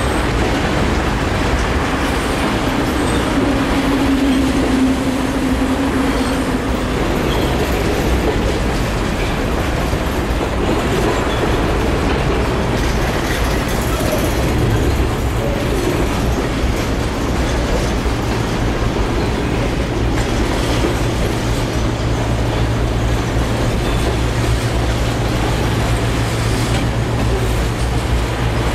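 Freight train cars rolling across a railway overpass: a steady rumble of steel wheels on the rails. A low steady hum comes in about halfway through.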